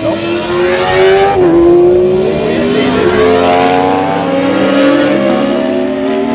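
Track-day motorcycles accelerating past on the circuit, several engines at once, their pitch climbing through the gears with a brief drop at a gear change about a second and a half in.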